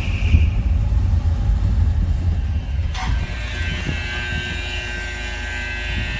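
Apartment elevator running: a steady low rumble, with a sharp click about three seconds in followed by a steady higher hum.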